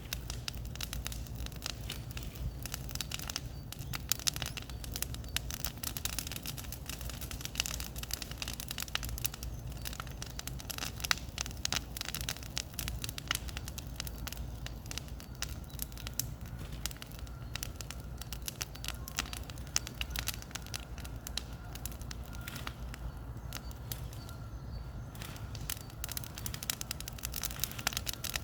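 Bonfire crackling, with many irregular sharp pops over a steady low rumble.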